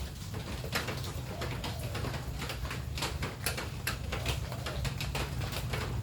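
Rain dripping and pattering in irregular sharp ticks, with a bird cooing softly in the background and a steady low rumble underneath.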